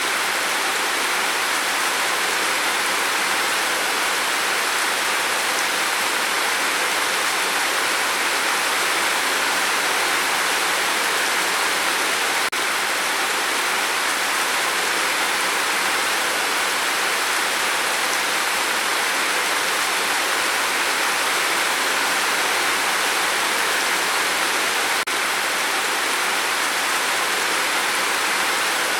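Steady, even hiss of rain falling, dipping briefly twice about twelve seconds apart.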